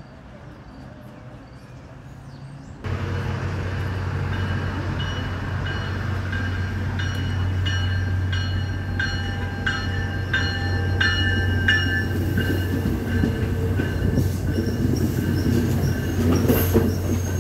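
MBTA commuter rail train rolling past close by: a steady low drone from the diesel locomotive, with wheels clicking over the rail joints at an even beat and a high steady wheel squeal. It comes in suddenly about three seconds in.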